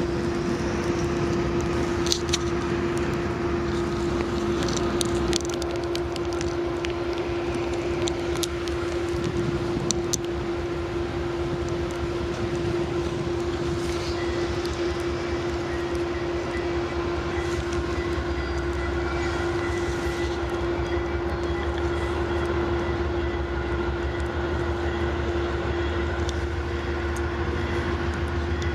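Diesel train running past, with a steady droning tone and low engine rumble. Scattered sharp clicks and knocks come in the first ten seconds or so.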